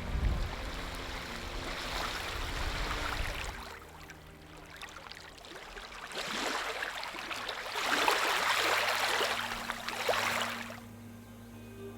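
Rushing water noise that swells and fades, loudest in the second half before cutting off suddenly, over a soft, steady musical drone.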